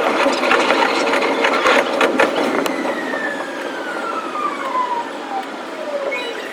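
Electric commuter train running: dense rattling and clicking of wheels on rails, with a thin whine that falls steadily in pitch from about three seconds in.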